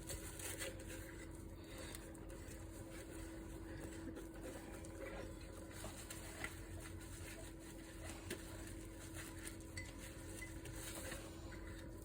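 Faint, scattered clinks and small knocks of dishes and utensils being handled while washing up by hand, over a steady hum.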